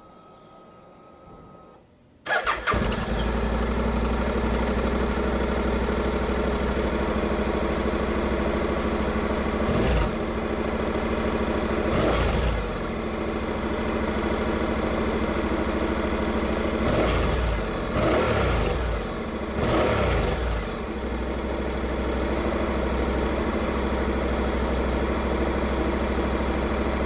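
Honda NC700X DCT's parallel-twin engine starting through a Beams slip-on muffler, after a faint steady whine, then idling with about five short throttle blips between ten and twenty seconds in. The sound cuts off suddenly near the end.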